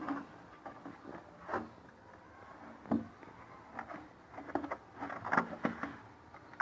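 Handling noises from a lidded container of medicated drinking water: scattered clicks and knocks, bunched together near the end.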